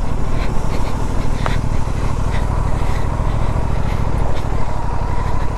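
Aprilia RS 457's parallel-twin engine running at low, steady revs while the bike is ridden slowly over a rough dirt track, with a few scattered small knocks.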